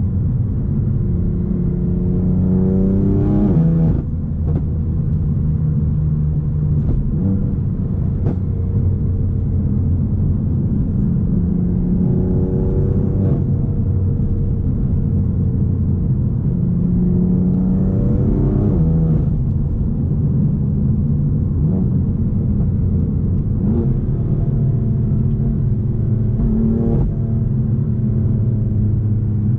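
BMW M4's twin-turbo inline-six running through a straight-piped, decatted Akrapovic exhaust under acceleration. The revs climb and drop back sharply about four times, with a few short cracks in between.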